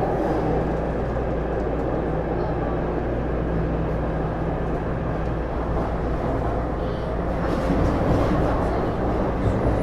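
Running sound inside a Taipei Metro C301 series subway car (IGBT-VVVF renovated) in motion: a steady rumble of wheels on the track with a low motor drone, swelling slightly about two-thirds of the way in.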